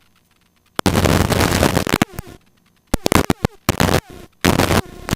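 Helicopter intercom audio switching on and off, letting through loud bursts of rushing cabin noise that start and stop abruptly. There is one long burst about a second in, a few short ones around the three- and four-second marks, and another long one near the end.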